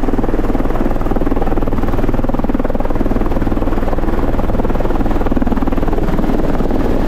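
Helicopter running steadily, heard loud and close as from on board: a continuous rotor and engine drone with a fast, even pulsing.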